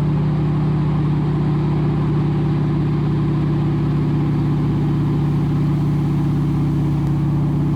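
Steady drone of a T-6 Harvard's Pratt & Whitney R-1340 Wasp nine-cylinder radial engine in cruise flight, heard from inside the cockpit, holding one even pitch.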